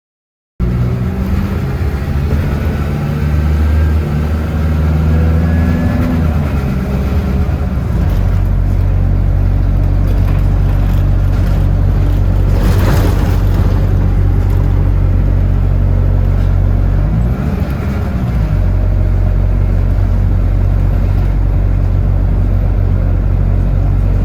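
Bus engine running under way, its note rising over the first few seconds as it pulls away. There is a brief hiss about halfway through and a dip in the engine note about three quarters of the way in.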